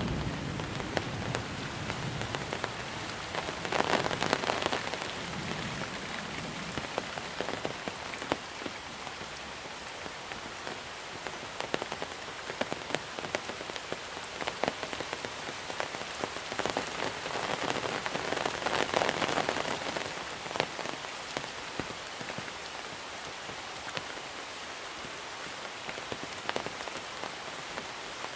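Heavy monsoon rain falling on a surface: a steady hiss with many distinct drop hits. It swells briefly about four seconds in and again around nineteen seconds.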